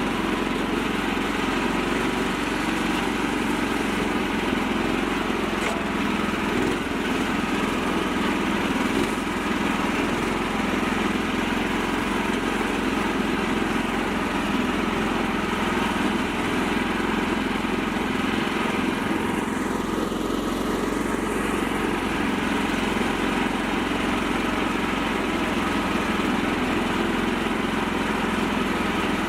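Small tractor engine running steadily at an even pace, with a brief sweeping change in its tone about twenty seconds in.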